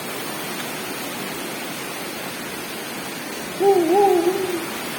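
Steady rain, with a short wavering call about three and a half seconds in, its pitch rising and falling several times over about a second.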